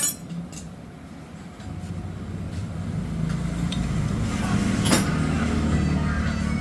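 A motorcycle engine rumbling low and steady, building up about two seconds in, with a metallic clink at the start and another about five seconds in.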